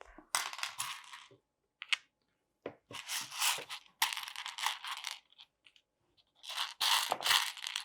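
Hands rummaging through loose plastic LEGO pieces: several bursts of rattling and rustling, the loudest near the end.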